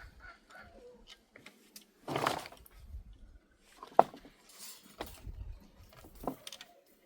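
Scattered knocks and clicks, the sharpest about four seconds in, with a short rustling burst about two seconds in, over intermittent low rumble.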